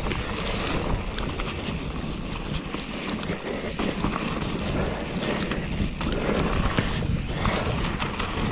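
Downhill mountain bike descending a wet, muddy trail: a steady rush of wind noise on the microphone and tyres on wet dirt, with scattered sharp clicks and knocks from the bike rattling over roots and rocks.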